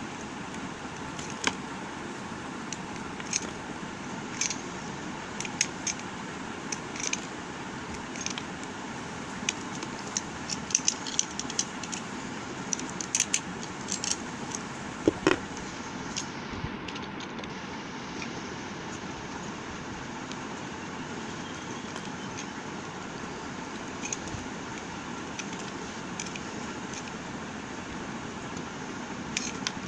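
Bar soap being cut with a knife: irregular crisp clicks and crackles, busiest in the middle with one sharper snap, over a steady background hiss.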